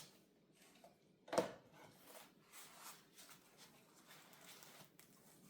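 Quiet handling of foam-lined packaging: faint rustles and small clicks, with one sharper knock about a second and a half in.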